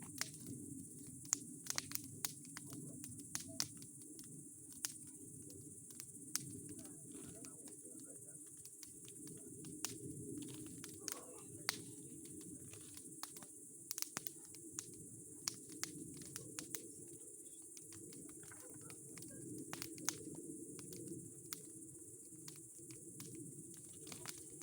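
Bonfire of old boards and pine cones crackling: irregular sharp pops and snaps over a steady low rush of the flames.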